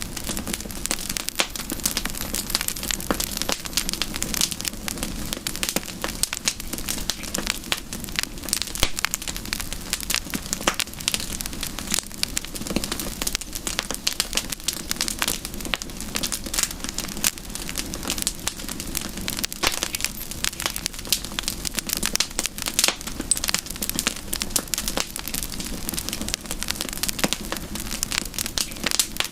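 Wood campfire burning with steady, dense crackling: many irregular small snaps and pops, unbroken throughout.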